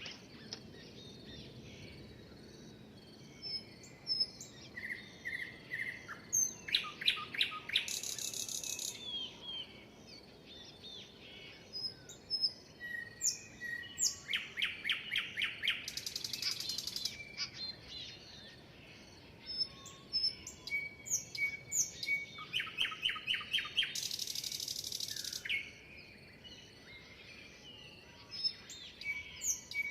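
Songbirds singing and chirping: fast runs of clear repeated notes recur every few seconds among scattered single chirps, and a harsh, hissy burst comes about every eight seconds.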